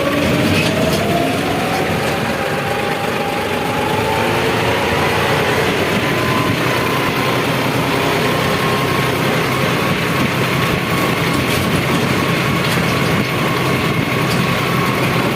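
John Deere tractor engine running under load, its whine rising in pitch as it speeds up over the first six seconds, then holding steady.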